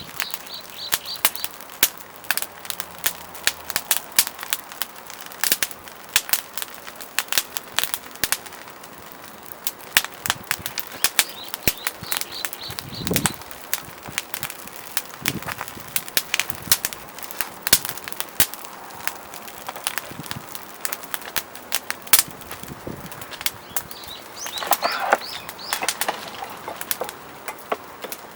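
Burning firewood crackling, with dense, irregular sharp snaps and pops over a low steady hiss.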